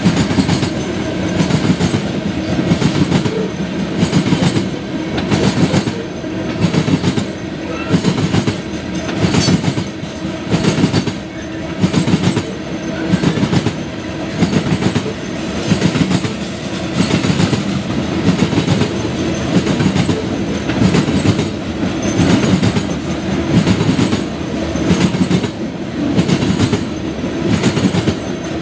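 Freight train of loaded covered hopper cars rolling past, its steel wheels clicking over the rail joints in a regular beat about once a second over a continuous rumble.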